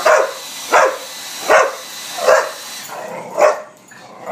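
A pit bull barking in a steady series, five barks about three-quarters of a second apart, at a running hair dryer. A steady rushing hiss, most likely the dryer, sits under the barks and cuts off about three seconds in.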